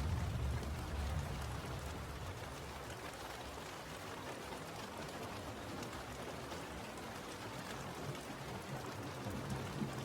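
Steady rain falling, an even patter of drops. A low rumble fades out in the first second or so.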